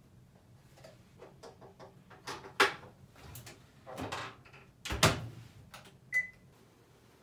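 Handling at a top-loading washing machine: small clicks and knocks from a detergent bottle and cap, with two loud knocks, the second as the lid comes down about five seconds in. About a second later the control panel gives a short electronic beep as a button is pressed.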